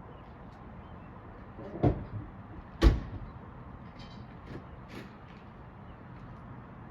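Two dull thumps about a second apart, the second one louder, over a steady background hiss.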